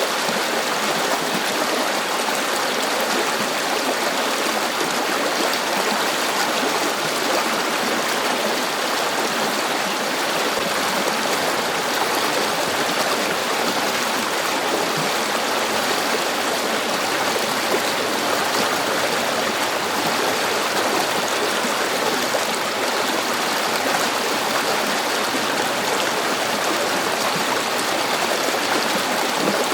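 River water flowing and burbling over stones, a steady rushing with fine trickling detail that does not change.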